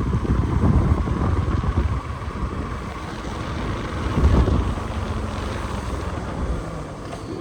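A motor vehicle running on the move: a steady low engine rumble with road and wind noise.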